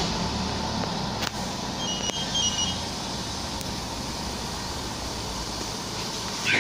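Ford Focus 3's 2-litre engine idling steadily just after a remote autostart, warming up from cold. Faint short high chirps sound twice about two seconds in.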